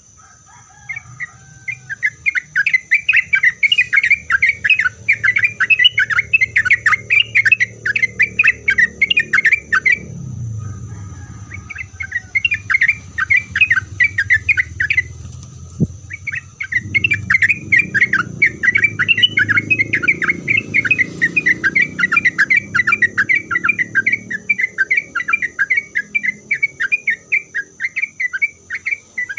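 Yellow-vented bulbul (trucuk) singing a long, fast chattering run of short sharp notes, broken by two brief pauses.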